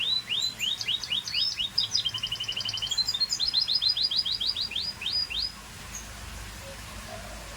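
Scotch Fancy canary singing: runs of quickly repeated chirping notes that change from one phrase to the next, ending in a fast trill that stops about five and a half seconds in.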